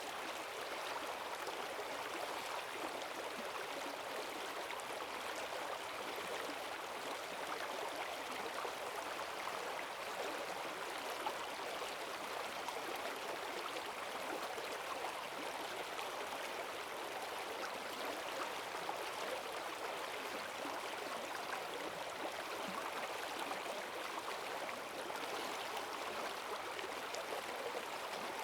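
Forest stream running high after heavy rain: strong, steady rushing and gurgling of water over stones.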